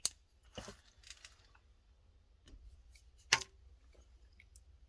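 A few sharp clicks and taps from a die-cast toy car being handled and turned over in the hands, the loudest a bit over three seconds in.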